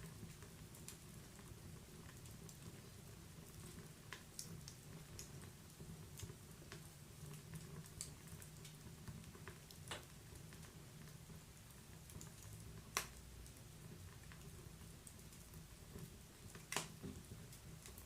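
Wood fire in a fireplace burning quietly: a steady low rumble with scattered soft crackles and a few sharper pops, the loudest about two-thirds of the way through and another near the end.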